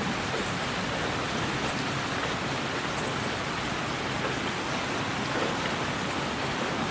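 Steady white-noise hiss, even and unchanging, with a soft rain-like texture.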